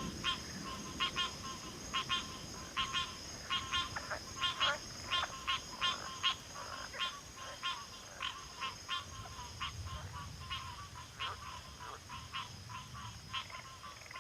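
A chorus of frogs calling in a backwater, many short rapidly pulsed calls overlapping at irregular intervals, over a steady high-pitched insect trill. The calls grow softer in the second half.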